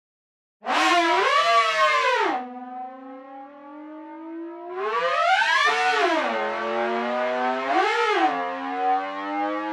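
Brainworx bx_oberhausen software synthesizer playing a siren-like patch: after a brief silence a bright, buzzy tone swoops up and down in pitch, settles on a low held note, then swoops up and back down twice more.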